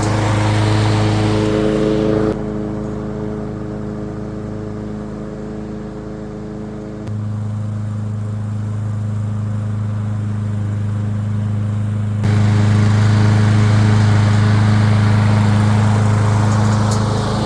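Masport Rotarola petrol rotary lawn mower running steadily while mowing. The sound drops abruptly about two seconds in and comes back up sharply about twelve seconds in.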